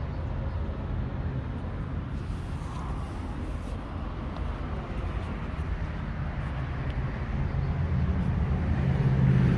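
2017 Yamaha SCR950's air-cooled V-twin engine idling steadily through its stock exhaust, growing louder toward the end.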